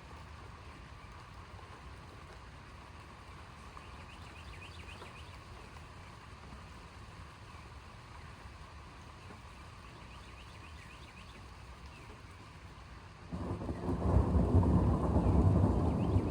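Steady light rain hiss, then about 13 seconds in a loud low thunder rumble breaks in suddenly and keeps rolling.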